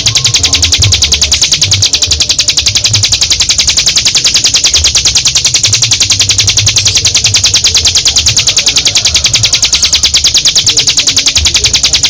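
A ciblek gunung (a prinia) in long 'ngebren' song: a fast, even, high rattle of repeated notes, about ten a second, held without a break.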